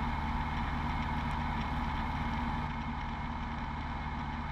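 Beechcraft V35 Bonanza's six-cylinder piston engine and propeller droning steadily in flight, heard inside the cabin, easing slightly about three seconds in.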